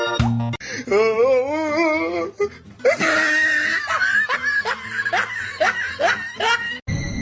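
A person laughing in a run of short rising bursts, about two a second, after a single wavering, quavering call. Organ music cuts off about half a second in, and near the end the sound cuts to a steady high whine with hiss.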